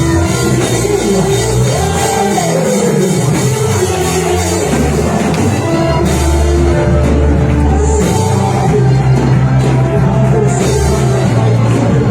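Live praise-and-worship band music, loud and steady, with held bass notes, drums and voices singing.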